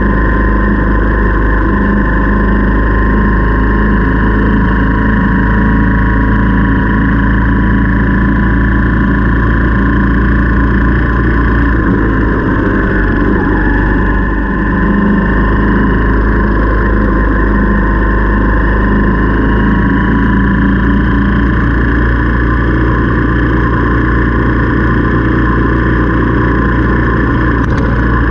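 Motorcycle engine running steadily while riding. Its pitch dips briefly about halfway through, then picks up again.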